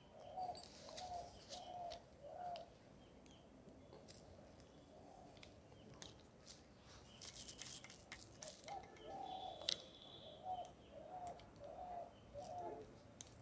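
A bird calling: a short, slightly arching note repeated about twice a second, in a run of four and then a longer run near the end. Faint clicks and rattles come from a spinning reel being handled and fitted onto a fishing rod's reel seat.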